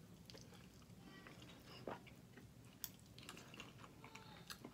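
Faint chewing and biting of chicken wings, with a few small clicks and wet mouth noises.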